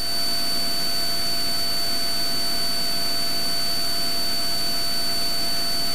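Steady in-flight cabin drone of a Cessna 182 Skylane's engine and propeller at cruise power, with a thin, steady high-pitched whine running through it.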